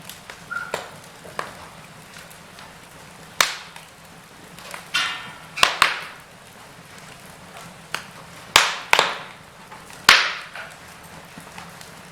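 Wood fire in a fireplace crackling, with a run of sharp pops and snaps at uneven intervals, the loudest about three and a half seconds in and again around eight to ten seconds in. A brief hiss comes about five seconds in.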